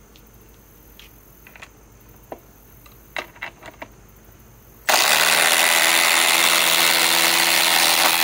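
A few light handling clicks and knocks, then about five seconds in Milwaukee M18 cordless impact drivers start up suddenly and run steadily under load, hammering as they drive fasteners in.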